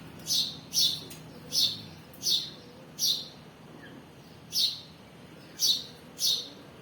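A small bird chirping repeatedly, about nine short, sharp, falling chirps, with a brief pause partway through.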